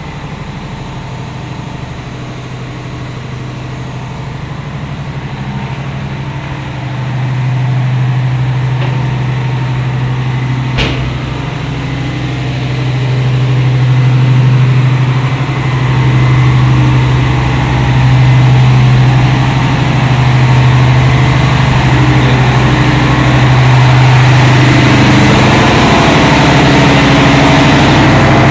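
Ship's engine-room diesel machinery running with a steady low drone, growing louder over the first half and then holding, with one sharp click about eleven seconds in.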